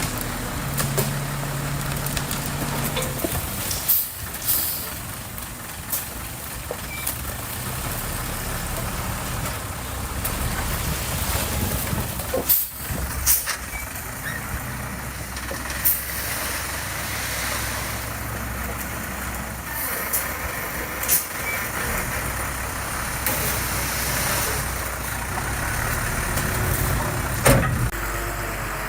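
Heavy diesel construction machinery running steadily under load, with sharp metallic knocks and clanks at irregular moments.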